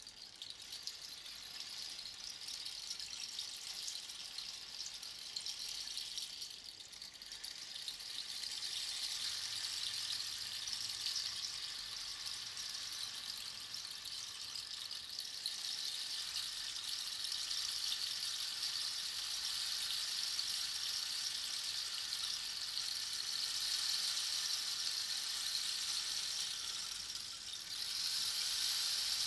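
Rain stick: small beads or pebbles trickling down through the pins inside the tube, a steady rain-like pattering hiss. The flow thins out briefly twice, once about a quarter of the way in and again near the end, then picks up again.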